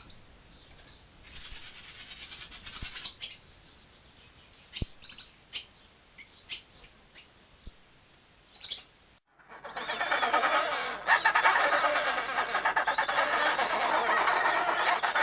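Bird calls from two recordings. First, scattered short high chirps. Then, after a sudden cut about nine seconds in, a louder, dense chorus of many overlapping calls.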